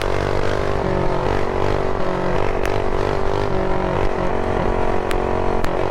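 Mini bike's stock-cam single-cylinder engine running at high revs under way, its pitch dipping briefly about a second in and again around four seconds as the throttle eases. Low rumble of wind on a chin-mounted helmet camera underneath.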